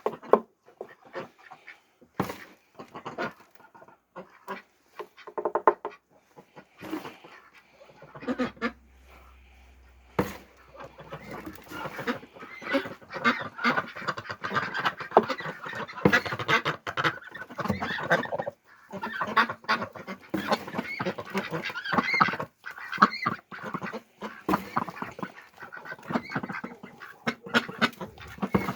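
A flock of domestic ducks quacking while they eat feed. Calls come in short scattered bursts at first, then become a dense, continuous chorus from about halfway through.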